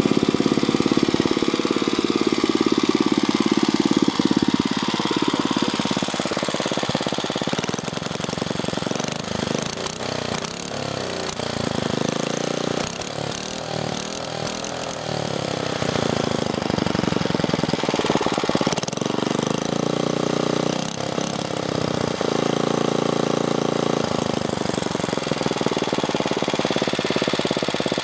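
A small engine running without a break, its pitch and loudness shifting, a little quieter for a while around the middle.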